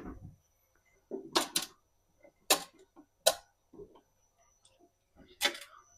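Household objects being handled and set down in a kitchen, making about five short, sharp clacks spread over a few seconds.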